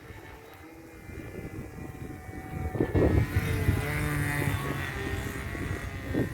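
Glow-fuel OS .46 engine of a radio-controlled model airplane running at high revs with a propeller whine, growing clearly louder about three seconds in.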